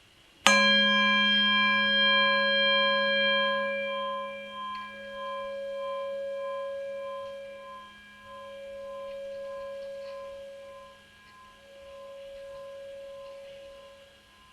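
Tibetan singing bowl struck once about half a second in, then ringing on with a slow wavering pulse in its tone as it gradually fades.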